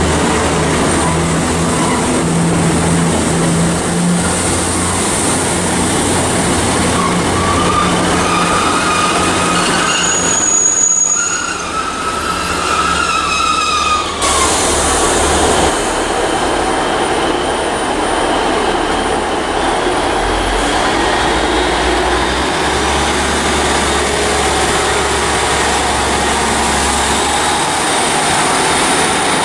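Diesel multiple-unit trains moving along a station platform, their engines giving a steady low drone over the rumble of the wheels. Between about seven and fourteen seconds in, a high metallic squeal from the train rises and falls, and about halfway through the sound changes abruptly to a different train.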